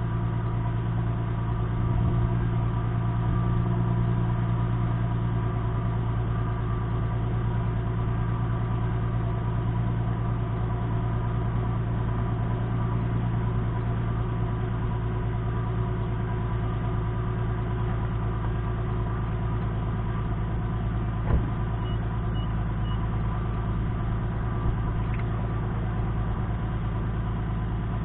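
Infiniti G37's 3.7-litre V6 idling steadily after a cold start, heard through an exhaust with glasspacks in place of the resonators, a Cherry Bomb muffler on one side and a Thrush on the other. A single sharp click sounds partway through.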